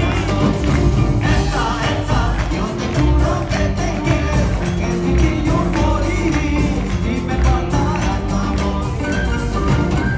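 Live Peruvian music: a band plays with singing, a steady bass line and hand percussion.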